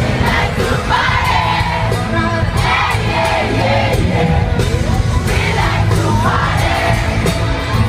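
Loud amplified pop music over a concert PA, with a crowd singing and shouting along, recorded from inside the audience on a phone.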